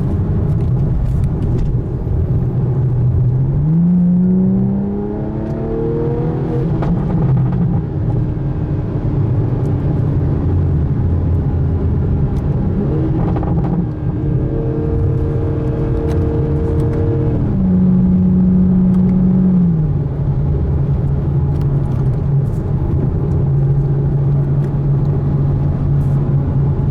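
2020 Toyota Supra's stock B58 turbocharged inline-six running through a Borla ATAK exhaust in sport mode while driving. The engine note climbs and holds a few seconds in, climbs again about halfway, then drops back in two steps and settles to a steady drone.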